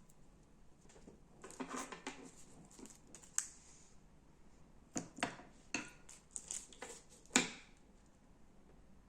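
Slime being handled and pressed by hand: a quick run of small sticky crackles, then a string of sharp snaps and pops, the loudest near the end.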